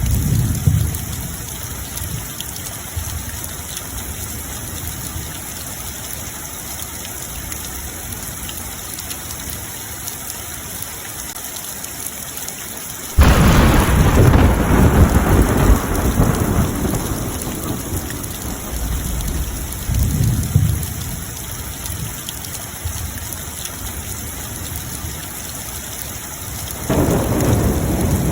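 Steady rain falling, with thunder. About halfway through a sudden loud thunderclap rolls on for several seconds, a softer rumble follows a few seconds later, and another loud peal of thunder comes near the end.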